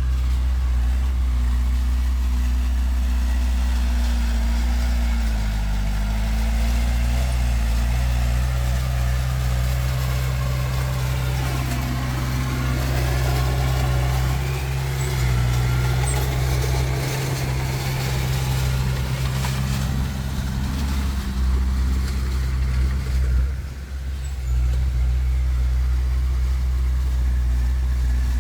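Heavy diesel machinery engines running steadily, with one engine's pitch dipping briefly and recovering about five seconds in. Around the middle, a second engine's sound rises and falls over the steady hum.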